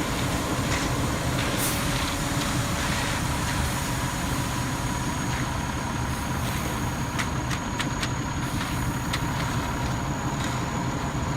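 Cement mixer truck running steadily, with a few light clicks near the end.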